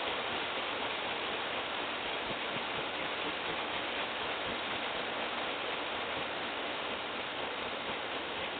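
Rain from a passing summer shower falling steadily, an even hiss without pauses.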